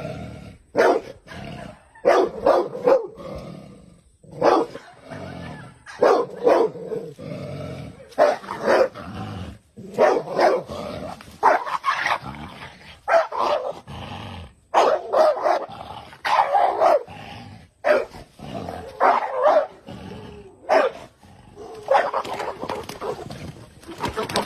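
A dog barking over and over, about one bark a second, sometimes two or three in quick succession.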